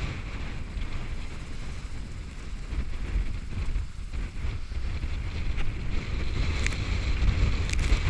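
Wind buffeting the microphone aboard a sailboat under way in heavy wind, a steady low rumble with water noise, and a couple of short clicks near the end.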